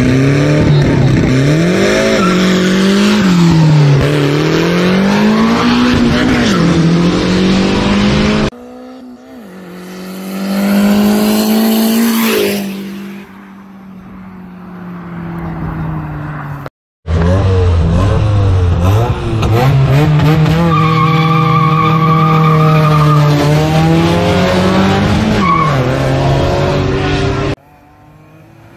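Toyota Corolla AE100's nitrous-fed 2ZZ-GE four-cylinder engine revving hard and bouncing up and down, with tire squeal, for the first several seconds. It is followed, after sudden cuts, by a quieter stretch and then a second loud run at high revs that sweeps down and up before dropping away near the end.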